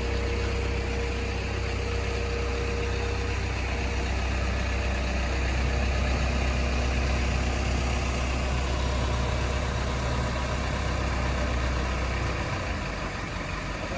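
Steady low machine hum with a faint wash of noise, the low hum dropping away about twelve and a half seconds in.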